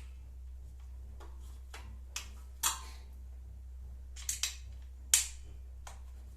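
Sharp clicks and clinks of hex-head screws and washers being handled and fitted by hand. There are about six separate clicks, the loudest about five seconds in, over a steady low hum.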